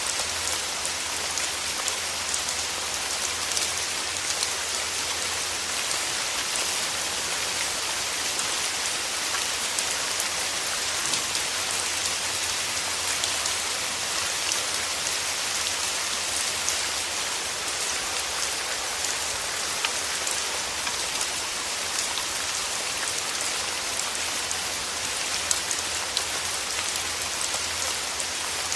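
Steady rain falling, an even hiss dotted with many small, close drop impacts.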